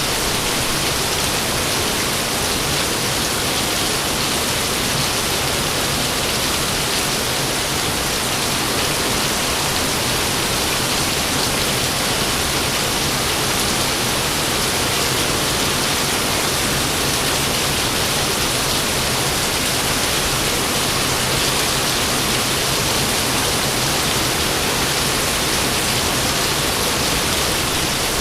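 Steady rain falling, an even hiss that keeps the same level throughout, with no thunderclap.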